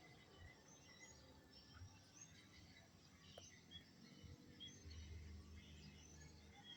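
Near silence, with faint, scattered bird chirps in the background and a low rumble about five seconds in.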